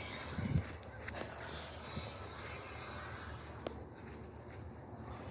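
Crickets trilling steadily at a high, even pitch, with a brief low thump about half a second in.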